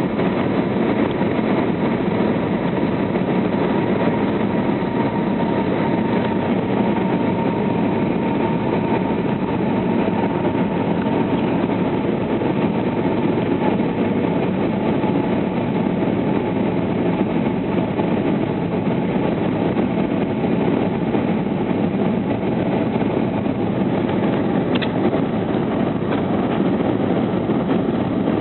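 Steady cabin noise inside an Airbus A320 in flight: an even rush of engines and airflow, with a faint steady whine that fades out about halfway through.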